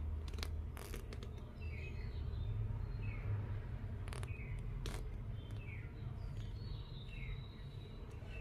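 A small bird chirping repeatedly, short falling chirps about once a second, over a low steady rumble with a few sharp clicks.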